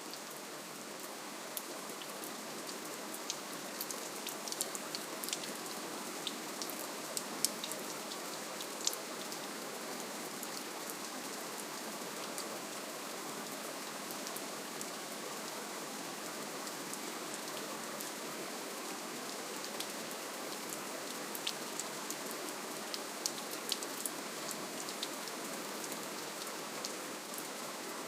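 Gentle, steady rainfall: an even hiss of rain with scattered sharper drop ticks, more of them a few seconds in and again near the end.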